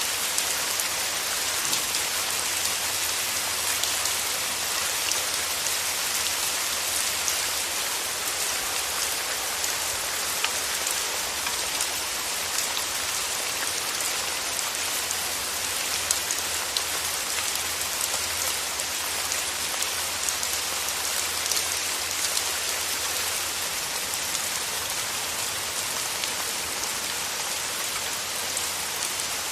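Steady, even rainfall, a dense hiss of many small drops striking surfaces.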